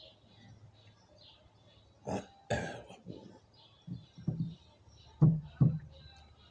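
A man coughing and clearing his throat in a series of short bursts, the two loudest close together near the end.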